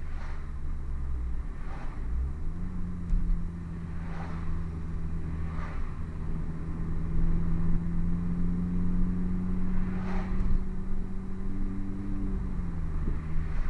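Hartge-tuned MINI's engine through its Hayward & Scott aftermarket exhaust, running at a steady cruise. The pitch rises about two and a half seconds in, holds steady, and drops back near the end, with a few faint thumps along the way.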